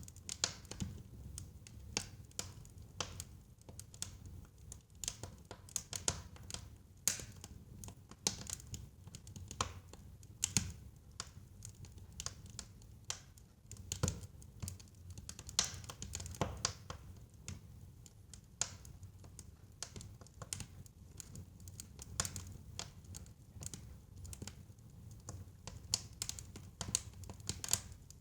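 Wood fire burning in a fireplace: irregular crackles and pops from the burning logs, several a second, some sharper and louder, over a low steady rumble of the flames.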